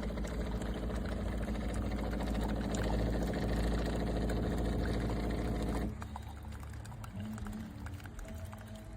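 De'Longhi TrueBrew drip coffee maker running, its pump motor humming steadily as coffee pours out. The motor cuts off about six seconds in and the sound drops to a faint remainder.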